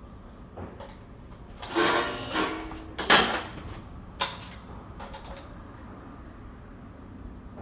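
Tools or parts being handled during work on a scooter: a scraping clatter, then a sharp knock about three seconds in, followed by a few lighter clicks.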